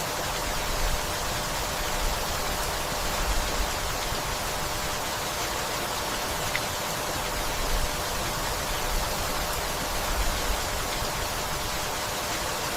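Steady rainfall, an even hiss of drops with small swells in loudness.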